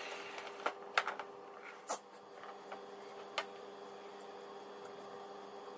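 The tail of a vacuum cleaner's motor fading out after switch-off, then a few sharp clicks and knocks of handling in the first few seconds over a faint steady hum.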